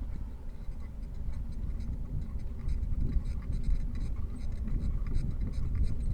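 Bicycle being ridden, with a steady low rumble of wind and road noise and a run of light, irregular ticking from the bike.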